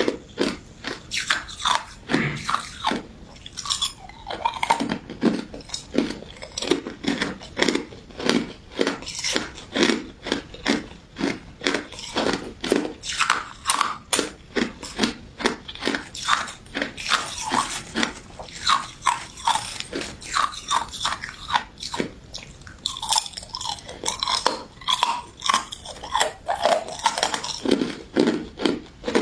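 Close-miked crunching and chewing of a crisp, icy crystal dessert, a sharp crunch about three to four times a second.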